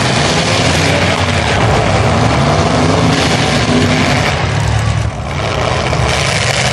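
Loud truck engine running hard, with a dense, noisy exhaust sound that dips briefly about five seconds in.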